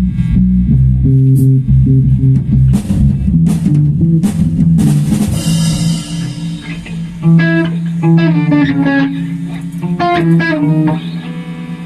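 Band music: bass guitar and drum kit with guitar. A cymbal crash about five seconds in, after which held higher notes ring over a steady bass note.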